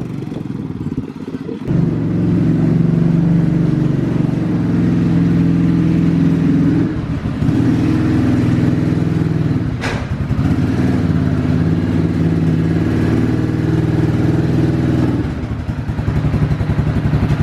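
A vehicle engine running under light throttle while pushing a dead pickup truck, picking up about two seconds in and easing off twice. A sharp knock stands out about ten seconds in.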